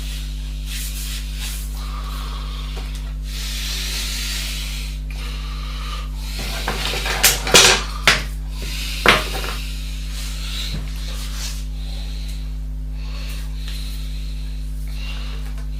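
Steady electrical hum throughout, with faint rustling and a few sharp clicks and knocks of small objects being handled, bunched about seven to nine seconds in.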